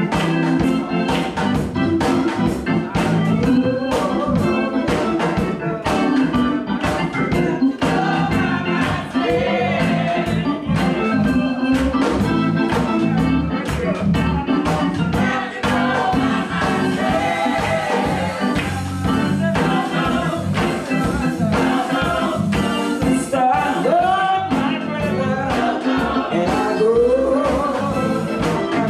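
Live gospel music from a church choir and band: organ chords over a steady drum beat, with singing.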